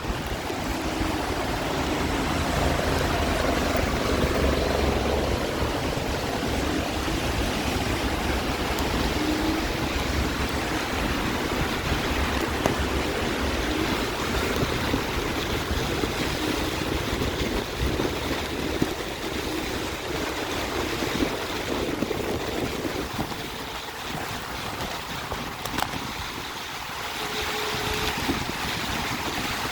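Wind and road noise from riding an electric scooter in the rain: steady rushing wind on the microphone and tyres hissing on the wet surface, easing off briefly about three quarters of the way through.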